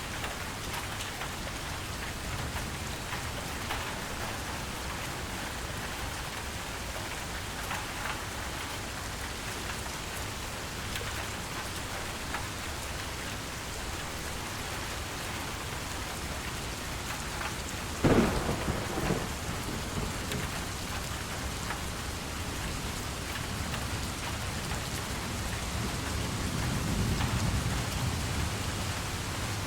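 Steady rain falling, with a sudden sharp crack of thunder about two-thirds of the way through, followed near the end by a low rumble of thunder that swells and fades.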